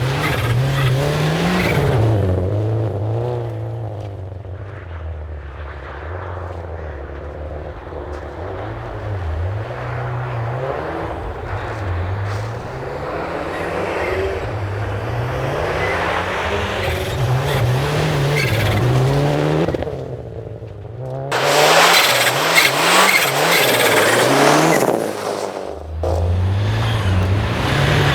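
Rally car engine revving hard on a snow special stage, its pitch climbing and falling again and again through gear changes. From about 21 to 26 seconds a louder rush of noise takes over.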